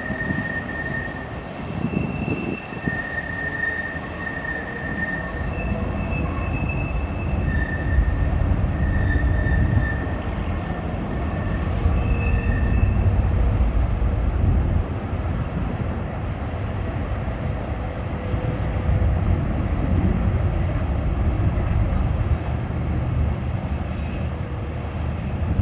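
Freight train rolling past, its wheels rumbling steadily on the rails, loudest about halfway through. Short high-pitched squeals come and go through the first half.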